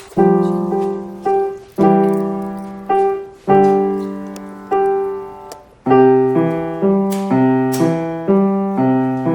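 Piano played slowly by a child, one note or chord at a time, each left to ring and fade; about halfway through the notes come quicker, roughly two a second.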